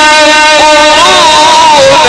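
A man's voice in melodic Quran recitation holding a long drawn-out note. The note is held level at first, then bends up and down in ornamented turns from about half a second in.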